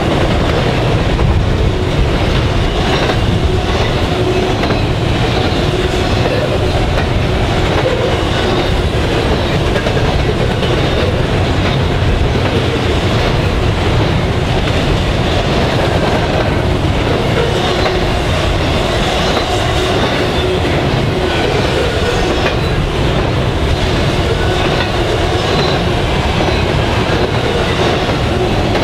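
Norfolk Southern double-stack intermodal freight train's container well cars rolling past: a steady, loud rumble of steel wheels on the rails, with faint high ringing tones above it.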